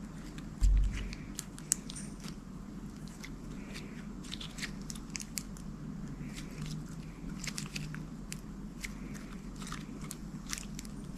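Slime being squeezed and played with by hand, giving many small irregular clicks and pops. There is a loud low thump about half a second in.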